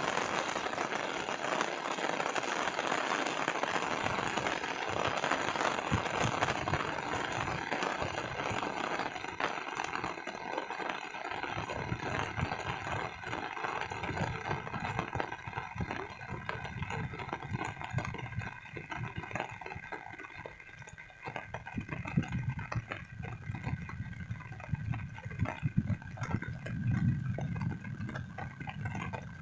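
Steady rain hissing, thinning out about halfway through, when an uneven low rumble comes in underneath.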